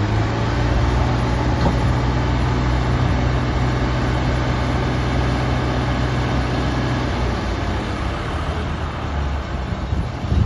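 Combine harvester running and working: a steady low engine hum under a dense noise of threshing machinery. The low engine tone eases about seven seconds in.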